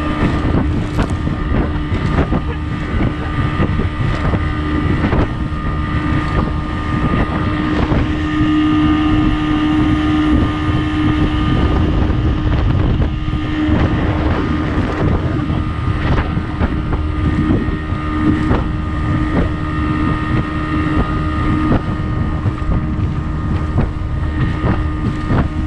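Boat's 35 horsepower outboard motor running steadily under way, a constant engine tone over a low rumble, with wind buffeting the microphone.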